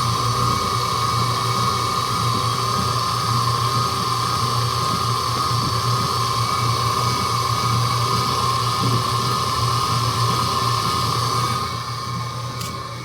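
Kin Yara Turbo spin dryer running at full speed: a steady motor whine over a hum, with no rhythm. It drops in level about twelve seconds in.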